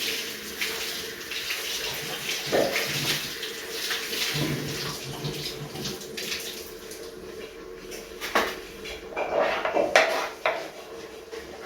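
Kitchen sink work: a tap running and utensils and dishes clattering now and then, with a few sharper knocks near the end. A faint steady hum lies underneath.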